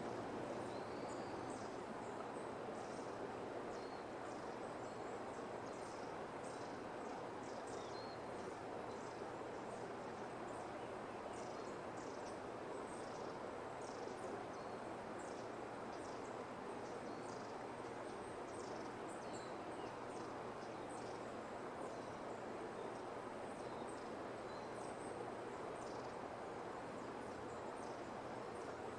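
A small flock of long-tailed tits calling: many thin, high, short notes scattered throughout, over a steady rushing background noise.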